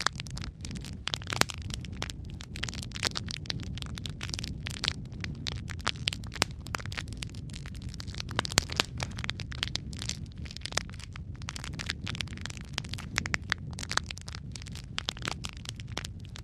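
Wood fire of burning logs crackling and popping, dense irregular snaps over a steady low rumble of the flames.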